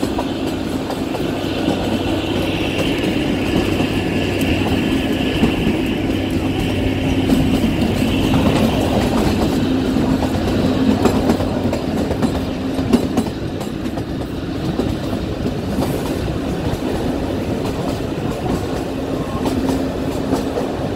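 Kalka–Shimla narrow-gauge train running along the track: a steady rumble with a low hum, and wheels clicking over the rail joints.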